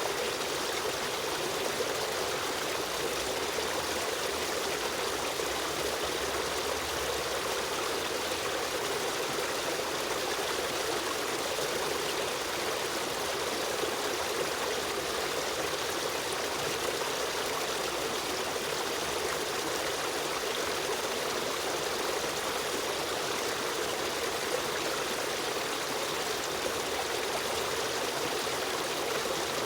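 A stream of running water flowing steadily, a constant rushing and trickling with no breaks.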